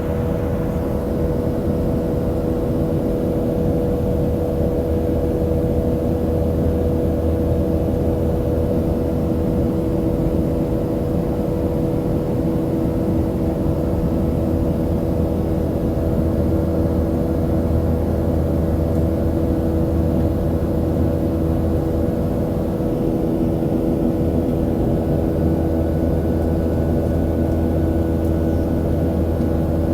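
Steady drone inside the cabin of a Boeing 737-700 in flight: its CFM56-7B jet engines and the airflow give a constant low rumble with a few steady hum tones above it.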